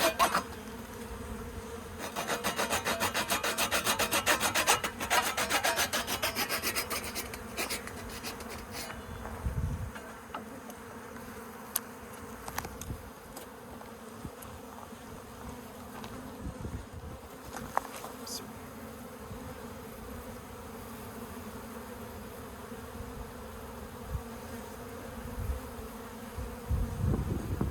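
Honeybees buzzing steadily. A couple of seconds in, quick back-and-forth strokes of a hand tool cutting wood run for about seven seconds, then stop.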